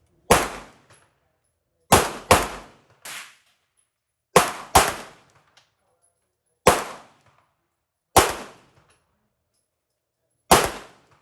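Pistol shots fired one at a time at an uneven pace: eight sharp cracks, some in quick pairs, each with a short echoing tail, plus a fainter shot about three seconds in.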